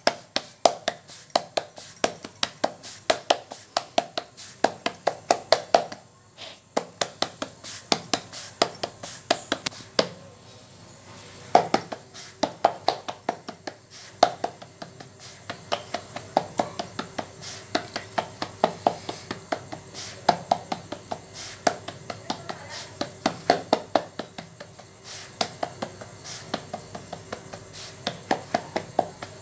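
Hands patting and pressing rice-flour (akki roti) dough flat on a wooden board: a long run of soft, quick slaps, about two to three a second, with a short break about ten seconds in.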